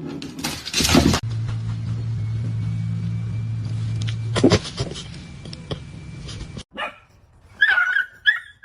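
A dog barking and whining, with high gliding whines near the end. A steady low hum runs under the first half.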